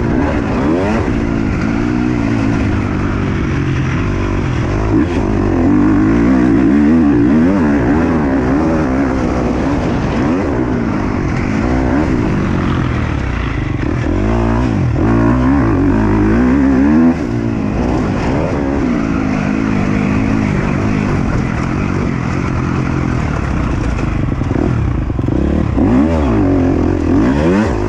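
KTM 250 SX-F four-stroke single-cylinder motocross engine, its pitch rising and falling over and over as the throttle is opened and closed. There is a short drop in loudness a little past halfway.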